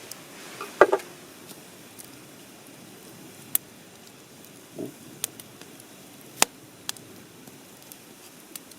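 Wood campfire crackling: scattered single sharp pops every second or so, with a louder cluster of knocks about a second in.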